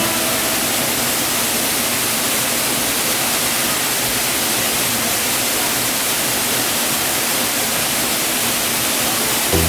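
Waterfall rushing: a steady, even hiss of falling water that does not break or change.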